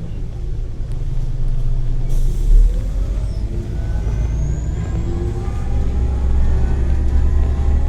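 Scania L94UB bus with an OCS9 compressed-natural-gas engine, heard from on board: a short air hiss from the air brakes about two seconds in, then the engine and driveline whine climbing steadily in pitch as the bus pulls away and accelerates.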